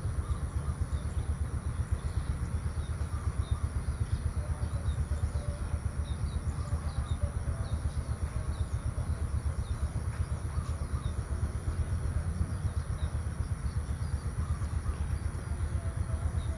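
Rural outdoor ambience: a steady low rumble with scattered faint bird chirps and a steady high hiss.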